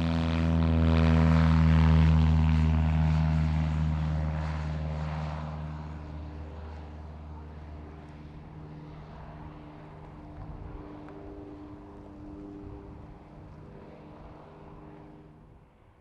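Light propeller aircraft's engine and propeller passing close by, loudest about two seconds in, then fading steadily as it moves away until it is almost gone.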